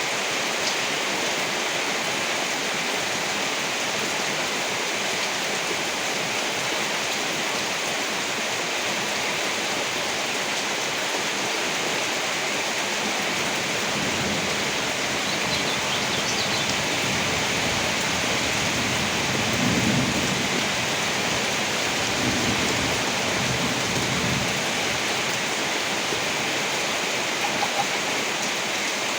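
Steady heavy rain, with a low roll of thunder coming in about halfway through and peaking about two-thirds of the way in.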